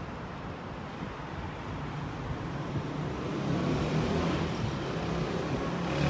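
Taiwan Railway electric train running at a station, a rumble with a low motor hum that grows louder from about halfway through.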